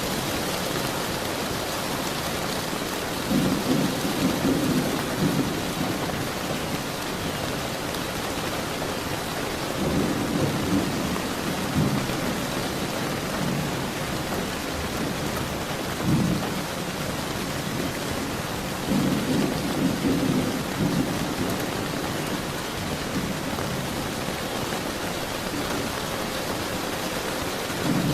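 Steady rain falling, with thunder rumbling five times, each roll lasting from a moment to about two seconds.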